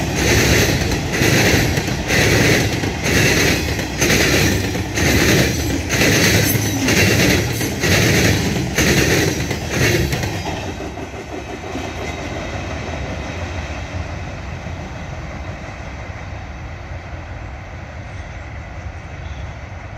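Empty Herzog hopper cars rolling past, their wheels clattering over the rail in an even rhythm about once a second, with a metallic ringing. About halfway through, the last car passes and the clatter gives way to a softer, steady rumble as the train moves off.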